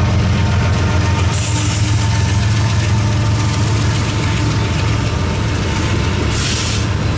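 BNSF diesel freight locomotive passing close by with a steady low engine drone, then double-stack container cars rolling past on the rails. Two brief hisses stand out, about a second and a half in and near the end.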